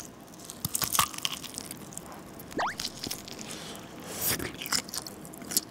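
Close-miked biting and chewing of a Mark jeongsik, a convenience-store dish of tteokbokki, spaghetti and sausage under melted cheese: wet chewing with a few sharp clicks of bites into the sausage, and a short rising squeak about halfway through.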